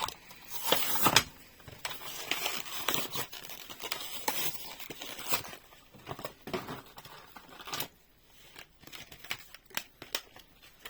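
A diecast toy car's plastic blister-card package being opened by hand: crackling, ripping plastic and cardboard with sharp clicks for the first five seconds or so, then scattered lone clicks and handling sounds.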